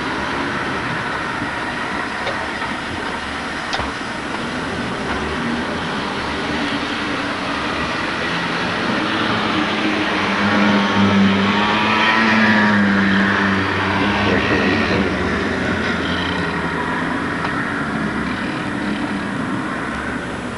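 HO scale model SD40 diesel locomotives running on the layout: a steady mechanical hum and rolling rumble that swells as a train passes close by, loudest about ten to fourteen seconds in.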